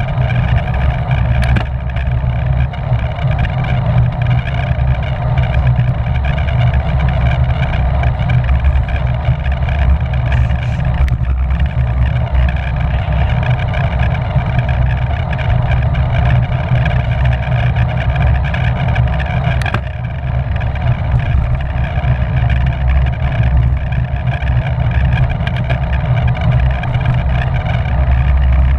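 Wind rushing over the microphone of a camera on a racing bicycle at speed: a loud, steady rumbling noise, with a few short clicks.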